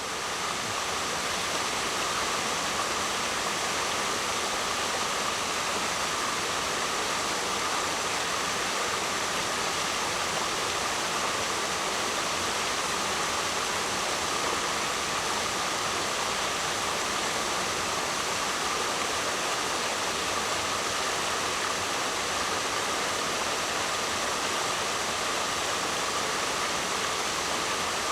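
Waterfall: a steady, even rush of falling water, fading up over the first second or so and then holding level.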